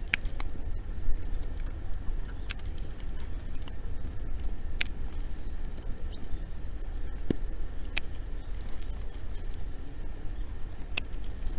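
Wood bonfire crackling, with sharp pops coming singly every second or few, over a low steady rumble.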